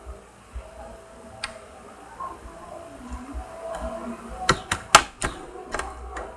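Homemade glue slime being stretched and squeezed by hand, making scattered small sticky clicks and pops, with a quick run of louder pops about four and a half seconds in.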